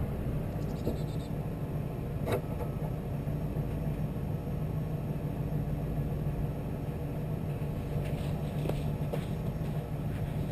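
Lincoln Town Car driving, its engine and running gear giving a steady low rumble. A single sharp click sounds about two seconds in, and a few fainter ticks come near the end.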